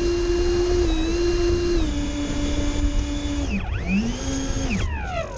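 Twin 70 mm 12-bladed electric ducted fans of an RC Me 262 jet whining steadily, then throttled down sharply about three and a half seconds in, spooled back up and throttled down again near the end.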